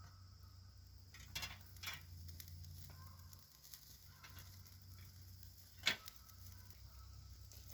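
Small campfire crackling faintly, with a few sharp pops, the loudest about six seconds in.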